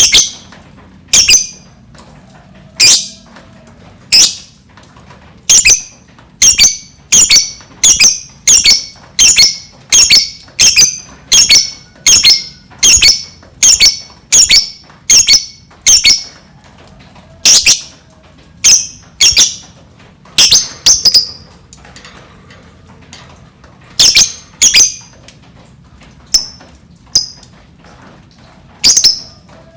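Lovebird giving short, shrill, piercing calls over and over, about one or two a second through the middle, with a few longer pauses near the end.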